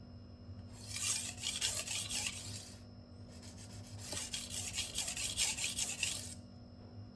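Steel kitchen-knife blade scraping back and forth across a wet sharpening stone in two spells of quick strokes, with a short pause between them.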